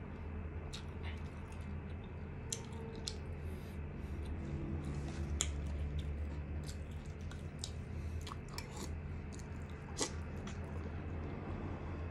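A person chewing chicken close to the microphone, with wet smacking and many short, sharp mouth clicks scattered irregularly throughout, over a steady low hum.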